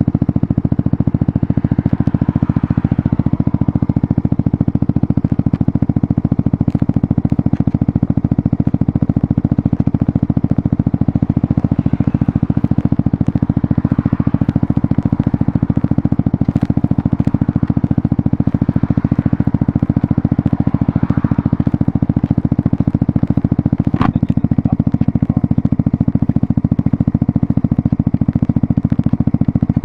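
Suzuki GSX-S 125's single-cylinder four-stroke engine idling steadily through its Mivv GP Pro exhaust, with one sharp click about 24 seconds in.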